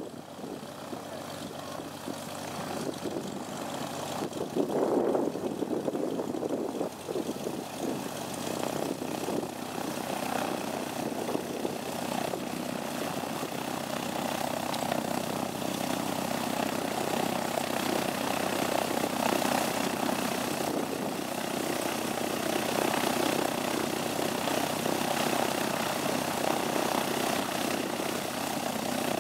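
Propeller aircraft engine running, heard from inside the cabin, steadily growing louder over the first half.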